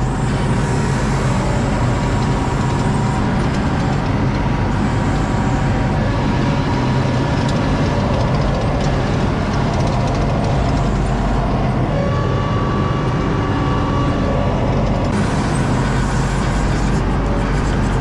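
ASV RT-40 compact track loader's diesel engine running steadily at working revs, with a faint drone of tones over the low engine noise.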